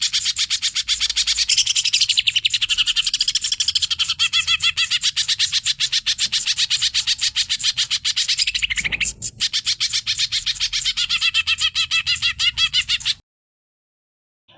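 Cucak ijo (green leafbird) singing a fast, unbroken stream of rapid chattering notes that cuts off abruptly about 13 seconds in. The song starts again just at the end.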